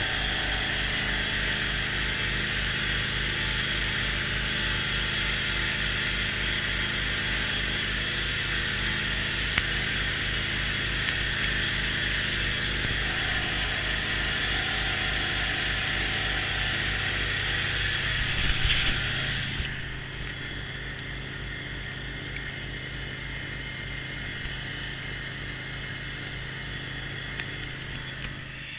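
John Deere X520 lawn tractor's V-twin engine running steadily, with a higher whine over it that cuts out about twenty seconds in, leaving the engine running quieter.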